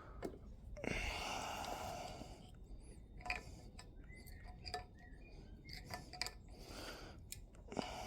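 Small metal parts and hand tools clinking and clicking on a workbench, with a longer rustling scrape about a second in.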